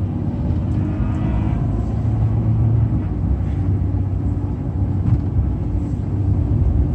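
Truck engine and tyre noise heard from inside the cab while driving, a steady low drone.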